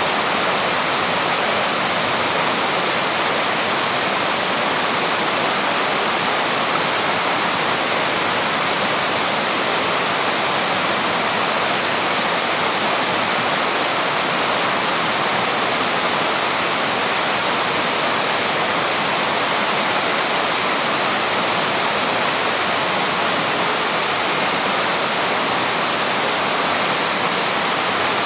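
Waterfall rushing: a steady, unbroken roar of falling water that does not change in strength.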